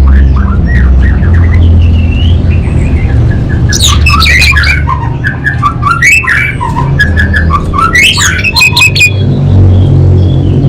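Orange-headed thrush singing a varied twittering song, breaking into loud strings of rapid, harsh high notes about four seconds in and again from about six to nine seconds, over a steady low rumble.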